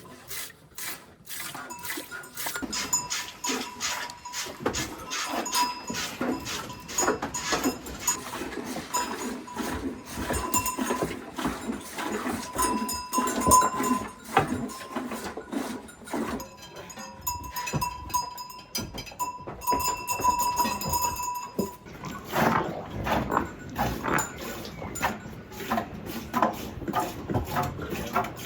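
Sheep bells clanking irregularly as the flock moves about, with a ringing tone coming and going.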